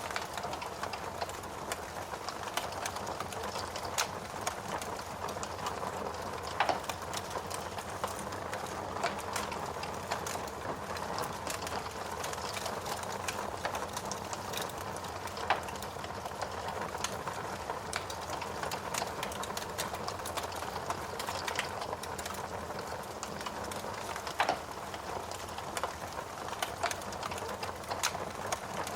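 Wood fire burning in a fireplace: a steady hiss full of small crackles, with a few louder sharp pops.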